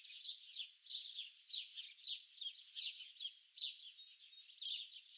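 Small songbirds chirping: quick, high-pitched chirps that sweep downward, coming in overlapping bursts about twice a second.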